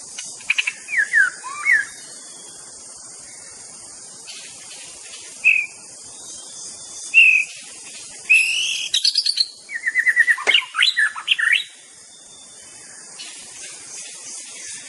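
White-rumped shama (murai batu) singing: short clear whistled phrases with sliding notes, then a faster run of rapid repeated notes past the middle.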